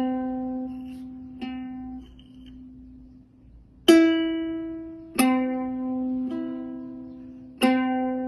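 A cat pawing a ukulele's strings, plucking six single notes at irregular intervals a second or two apart, each left ringing and fading until the next. The pluck about four seconds in is the loudest.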